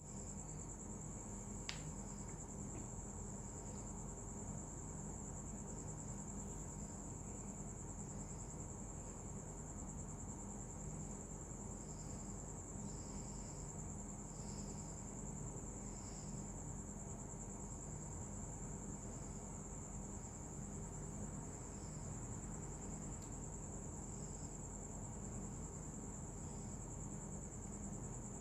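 A steady, high-pitched insect chorus trilling without a break, with softer chirps coming in every second or so and a low hum underneath.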